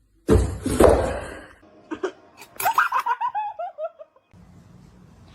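A loud, noisy burst near the start, then a person laughing in a run of short 'ha's that fall in pitch.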